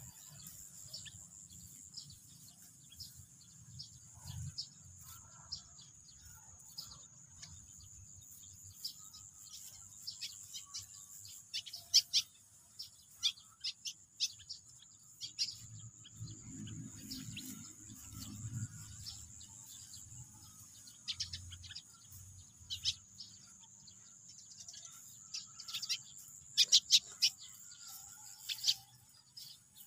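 Small birds chirping in many short, sharp calls, louder bursts about twelve seconds in and again near the end, over a steady high-pitched drone.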